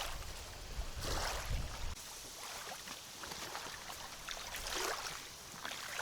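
Wind buffeting the microphone, a low rumble in the first two seconds, over a steady hiss of water lapping.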